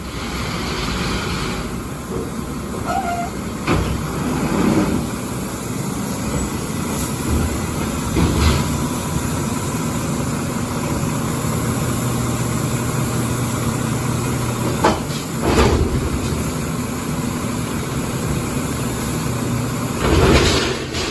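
Garbage truck's engine running steadily, with several short knocks and bangs along the way.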